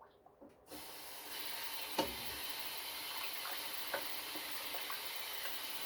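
Kitchen tap running water into a sink, a steady hiss for about five seconds with a few light knocks, then shut off.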